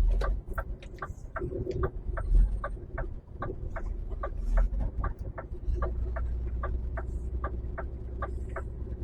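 Truck's turn-signal indicator ticking steadily, about two and a half ticks a second, over the low rumble of the HGV's diesel engine.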